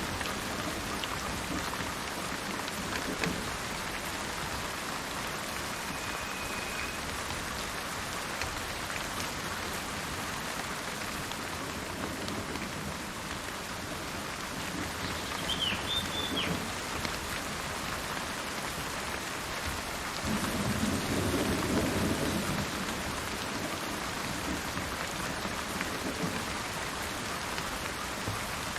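Steady rain falling, with a low rumble of thunder rolling in about two-thirds of the way through. Two brief bird chirps sound over the rain, one early and one near the middle.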